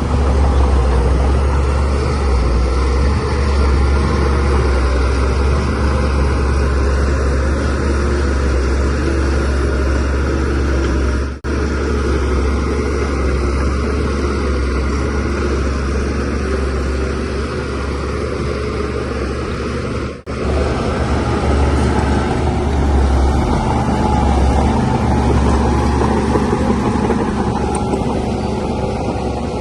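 DH17C3PRO bulldozer's diesel engine running steadily under work, a loud low drone with a broad mechanical noise over it, broken by two brief dropouts about a third and two-thirds of the way through.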